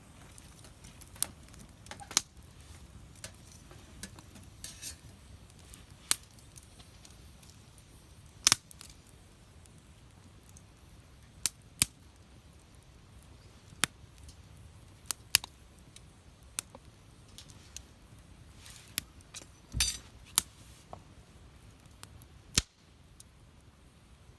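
Wood campfire crackling, with sharp irregular pops every second or so over a low steady hiss and a short burst of crackles near the end.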